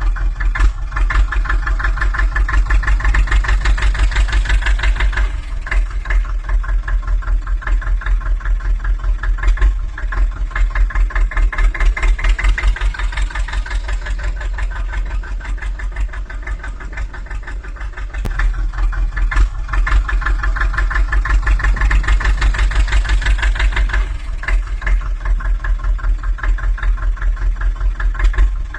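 Tractor engine running with a fast, even chug. Its loudness swells and eases about three times, as if it is being worked under load and then let off.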